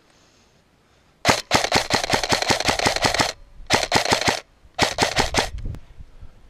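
Airsoft rifle firing on full auto in three bursts, about seven shots a second: a long burst of about two seconds, then two shorter ones.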